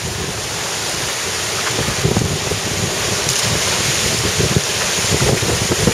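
Rushing wind and sea noise aboard a racing sailboat under way at sea, with gusty wind buffeting the microphone.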